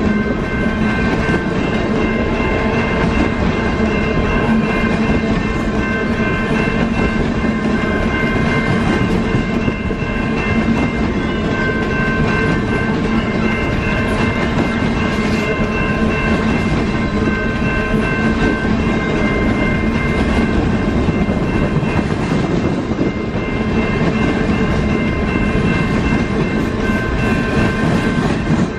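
Loaded coal cars of a Canadian Pacific freight train rolling past close by: a steady rumble and clatter of steel wheels over the rail joints, with a steady high whine over it.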